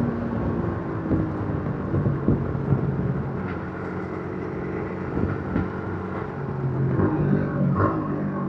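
Yamaha MT-15's single-cylinder engine through its stock exhaust while the bike is ridden. Its pitch falls in the first second, then holds fairly steady with small rises and dips, over wind and road noise.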